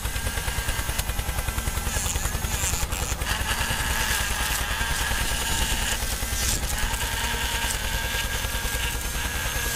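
Small electric motors of a homemade toy tractor tree cutter running steadily, with a thin whine and a fast rattling pulse.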